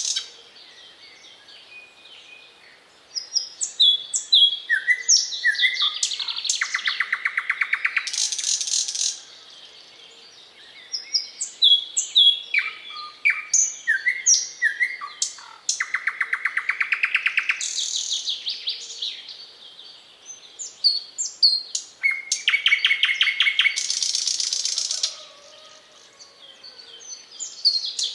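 Thrush nightingale singing: phrases of whistled, sliding notes and fast rattling trills, separated by short pauses.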